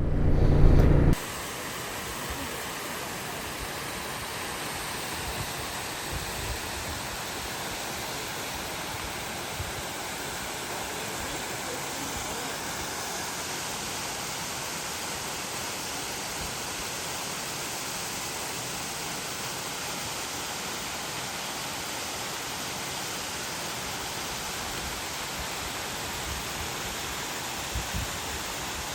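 Steady, even rush of a small waterfall. It starts about a second in, where the motorcycle riding sound cuts off.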